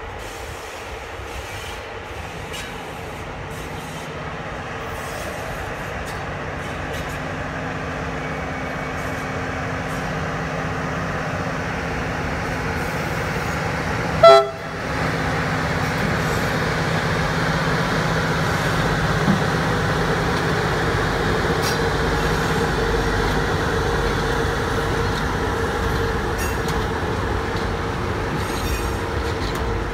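Freight train approaching and growing steadily louder, its locomotive giving steady tones over a rumble. About halfway through it sounds one short, loud horn blast, then keeps running past at an even level.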